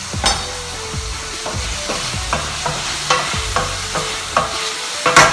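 Courgette pieces frying in oil in a pan, a steady sizzle, under regular sharp knocks about two a second from a knife chopping squid on a plastic cutting board and a utensil stirring the pan. The loudest knock comes near the end.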